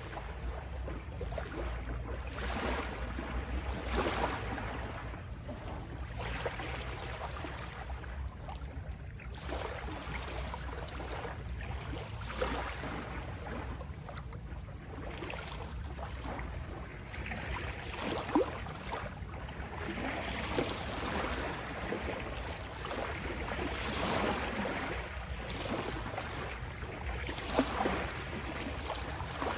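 Small sea waves lapping and rippling at the shore, swelling and easing every few seconds over a steady low rumble, with a couple of brief sharper splashes.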